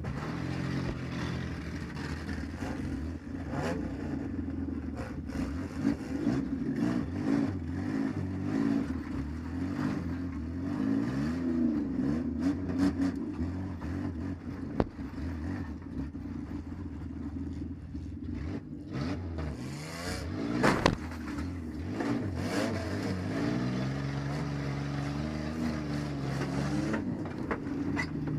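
Minivan engine revving up and down under hard driving, heard from inside the car, with rattling and knocks of metal from collisions in a demolition derby. Two sharp, loud hits stand out, about fifteen and twenty-one seconds in.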